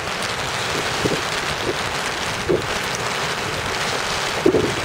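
Heavy rain on an umbrella: a steady, loud hiss, with a few soft knocks from the camera being handled as its lens is wiped.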